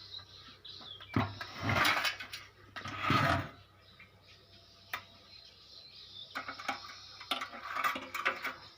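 Metal engine parts being handled and shifted, with bursts of clattering and scraping about a second in and again near three seconds, a sharp click midway, and more clinking near the end.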